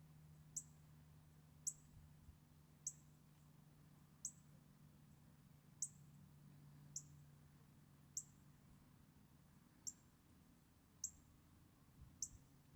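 Northern cardinal giving short, sharp, high chip calls, about one a second, over a faint steady low hum.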